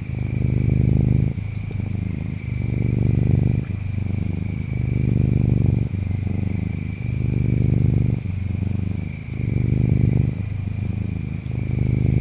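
A cat purring steadily, the purr swelling and easing with each in-breath and out-breath, about one breath cycle every two seconds. Behind it insects chirp: a steady high trill with bursts of very high chirping about every four to five seconds.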